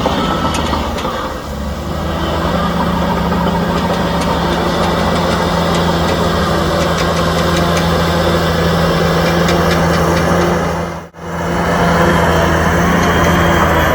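Heavy diesel engine of earthmoving equipment running steadily with a low, even hum. The sound drops out for a split second about eleven seconds in, then resumes.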